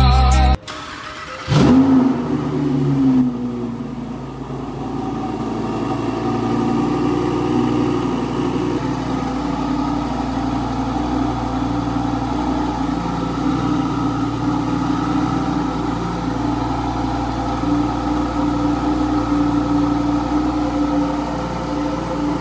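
A supercar's engine idling steadily at a fast cold-start idle. It follows a sharp click about a second and a half in.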